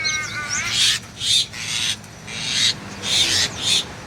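A group of small caged songbirds chattering, with harsh rasping calls about twice a second and a few warbling chirps near the start.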